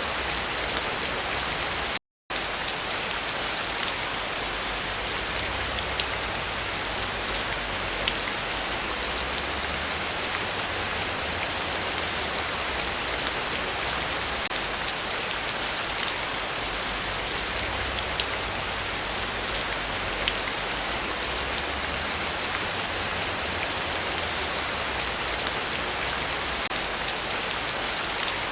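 Heavy rain falling steadily, a dense hiss with individual drops ticking through it. The sound cuts to silence for a moment about two seconds in.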